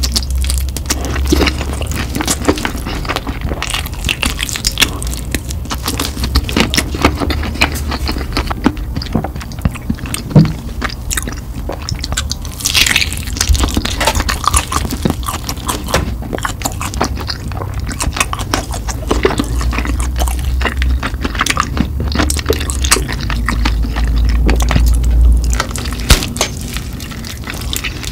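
Close-miked eating of sauce-coated fried chicken: crisp crunching bites and wet chewing, with many sharp crackles coming in quick, irregular clusters.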